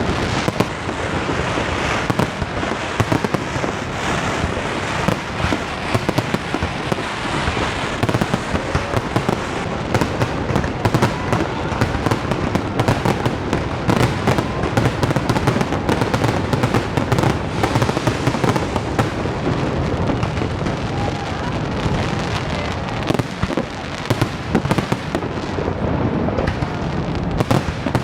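A large fireworks display: dense, continuous bangs and crackling bursts overlapping one another without a break.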